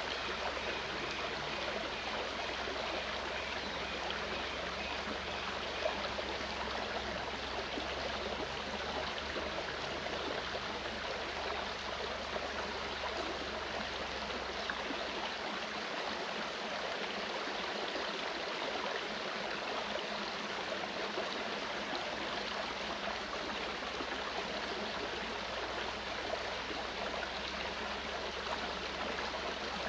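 Clear mountain stream flowing, a steady, unbroken rush of water.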